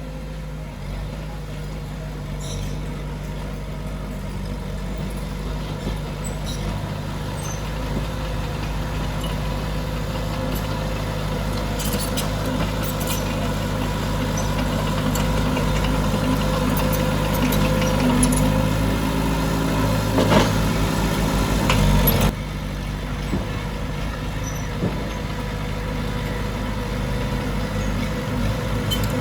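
Heavy diesel earthmoving machinery running under load. The engine grows steadily louder, with metallic clanks, then drops back suddenly about three quarters of the way through.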